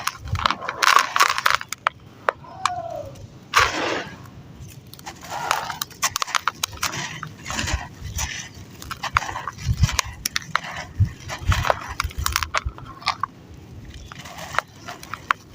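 Sand-cement chunks crumbling and breaking apart in water: irregular crunches and crackles, coming in clusters with short quieter gaps between them.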